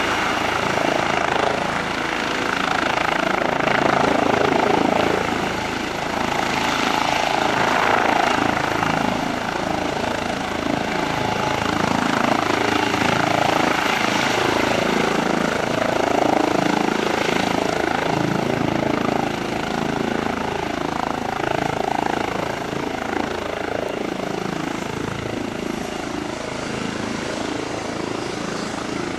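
Airbus H135 helicopter running close by, its rotor and twin turbines making a steady, churning roar that eases off slightly near the end.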